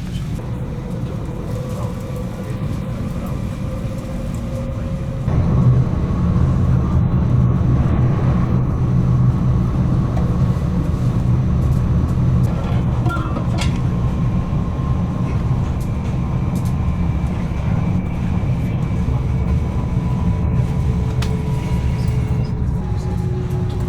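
Electric passenger train running along the line: a steady low rumble that gets louder about five seconds in. Faint steady whining tones and occasional clicks sound over it.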